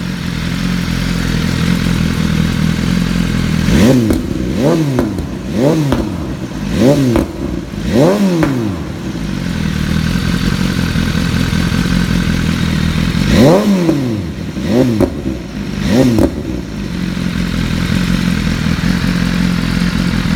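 BMW S1000RR inline-four idling through an HP titanium exhaust system with an Akrapovic GP end can, with quick throttle blips: five in a row a few seconds in, then three more later, each a short rise and fall in revs before it settles back to a steady idle.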